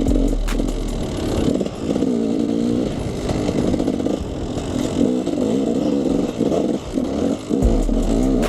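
KTM 300 EXC single-cylinder two-stroke dirt bike engine revving, its pitch rising and falling again and again as the throttle is worked.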